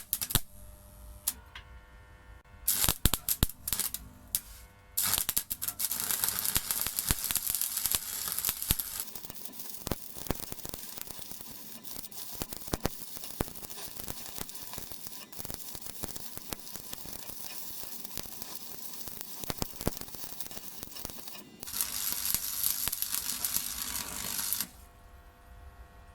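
Stick (MMA) arc welding with a Parkside PESG 120 B3 transformer welder running an oversized 3.2 mm electrode. A few short arc strikes come first, then from about five seconds in a continuous crackling, sputtering arc. It cuts off near the end, leaving the welder's faint transformer hum.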